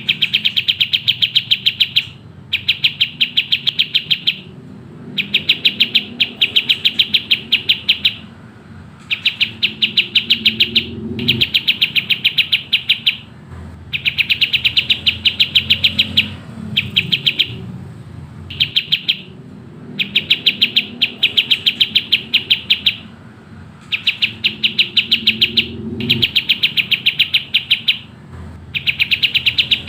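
Kapas tembak bird singing in fast, tightly packed trains of rapid high chirps, each run lasting a second or few before a short break, then starting again.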